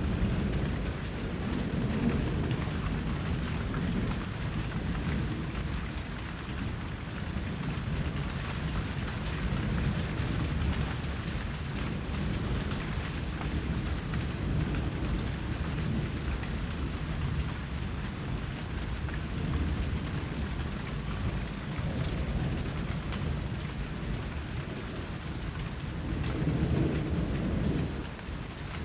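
Steady rain with low rumbles of thunder, the last swelling and dying away near the end.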